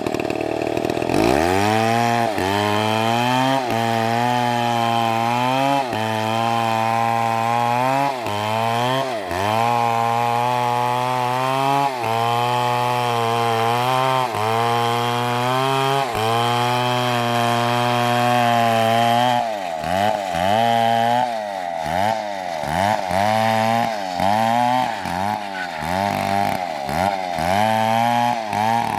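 Large MS720 chainsaw cutting into a big tree trunk, the engine held at high revs under load. Its pitch sags and recovers about every two seconds. From about two-thirds of the way in, the revs swing rapidly up and down instead.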